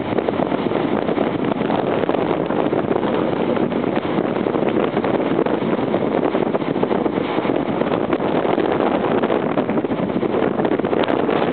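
Steady rushing storm wind with no let-up, buffeting the microphone.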